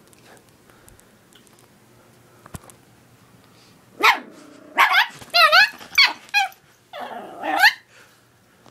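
A chihuahua barking in a fast string of sharp, high yaps that rise and fall in pitch, starting about four seconds in after a quiet stretch: the dog is agitated and defensive.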